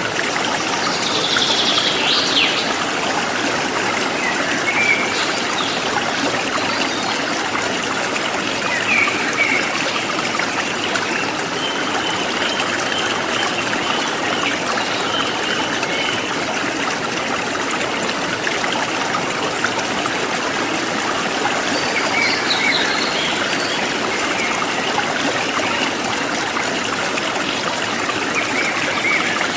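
Forest stream flowing steadily, with a few faint bird chirps, about a second in and again near the end.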